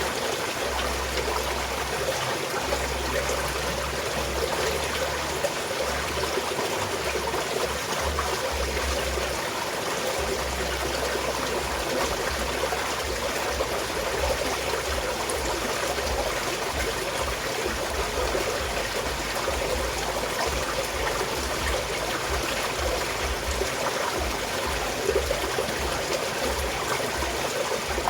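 Small mountain stream flowing and trickling steadily over rocks.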